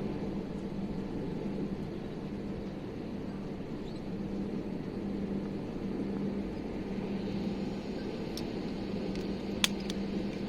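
Steady airliner cabin noise with a low hum, broken near the end by a few short clicks, one sharper click about nine and a half seconds in.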